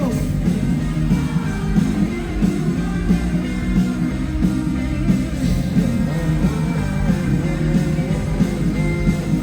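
Live rock band playing an instrumental passage, with electric guitar, bass and drums, loud and continuous.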